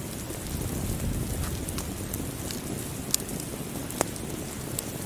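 Steady rainfall with a crackling wood fire. Scattered sharp pops stand out over the rain, two louder ones about three and four seconds in.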